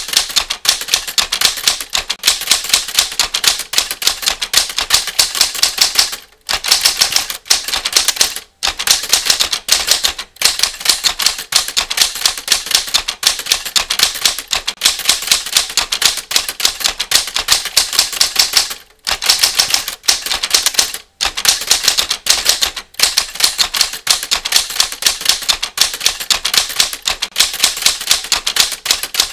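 Typewriter sound effect: a fast, even run of typewriter key strikes, several a second, stopping briefly a few times and going on again.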